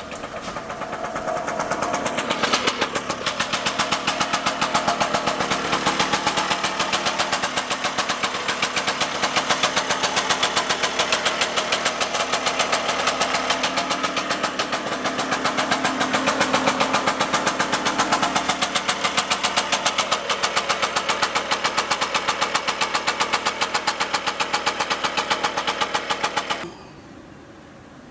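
Lambretta Silver Special's two-stroke single-cylinder scooter engine, freshly rebuilt with a new piston and rings, running with a fast, even pulse. It builds up over the first couple of seconds, holds steady, and cuts off suddenly near the end.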